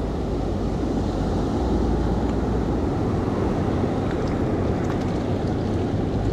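Surf washing in and out around the shallows, with wind rumbling on the microphone.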